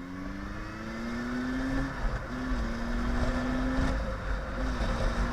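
Motorcycle engine accelerating, its pitch climbing, with a sharp drop in pitch about two seconds in and again about four seconds in as it shifts up a gear. A low rumble of wind runs underneath.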